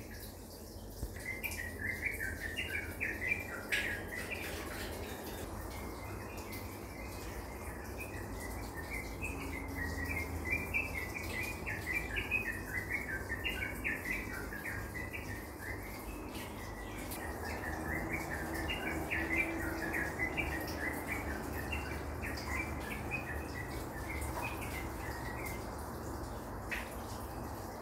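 Birds chirping continuously in the background, dense and irregular, over a low steady rumble.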